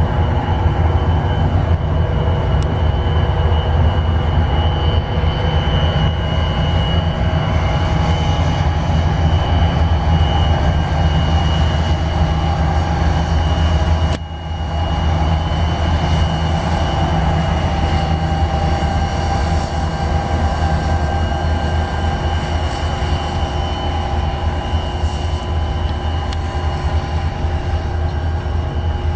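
Loaded cellulose freight train, hauled by a pair of EMD SD40T-2 diesel locomotives, passing close by. It makes a steady heavy low rumble with thin high wheel-squeal tones over it, and the level dips briefly about halfway.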